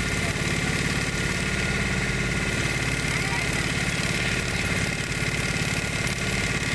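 Motorboat engine running steadily at an even speed, with a fine rapid pulse from its firing.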